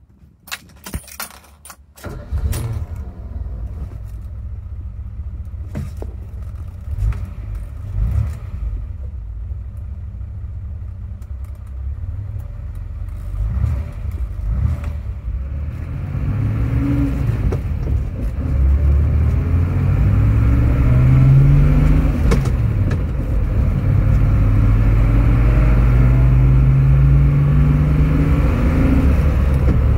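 Keys jangling in the ignition, then the 1964 Mercedes-Benz 220b's straight-six starts about two seconds in and idles. Later it pulls away, rising in pitch as it accelerates, with one gear change about twenty-two seconds in before it climbs again. Heard from inside the car.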